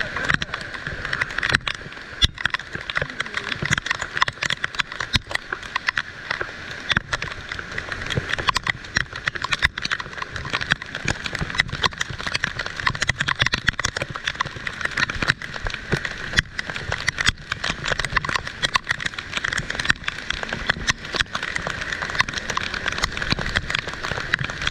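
Heavy rain falling, with a dense, irregular patter of drops striking a nearby surface.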